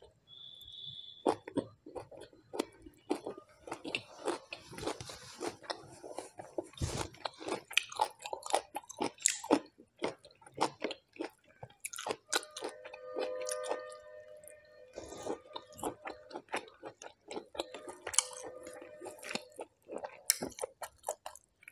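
Close-miked chewing and crunching, with many sharp wet mouth clicks, from someone eating rice, smoked pork and fresh chillies by hand. A faint held tone sounds in the background twice, about halfway through and near the end.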